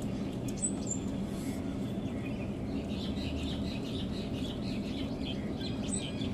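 Small birds chirping: a few short, high chirps and a run of quick twittering notes in the second half, over a steady low hum.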